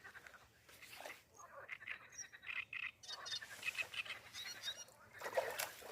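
Faint outdoor nature sounds: scattered short high chirps and twitters of small birds, with light rustling and ticks that grow denser near the end.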